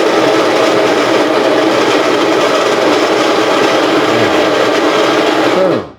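Electric coffee grinder grinding espresso beans, a loud steady whirring grind that cuts off abruptly just before the end.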